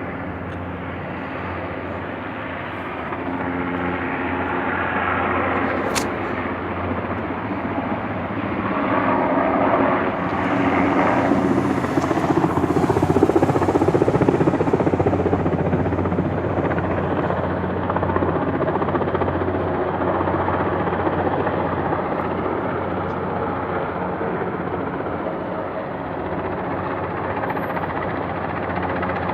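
Helicopter running overhead, a steady rotor and engine drone that swells louder about ten seconds in and then eases off again.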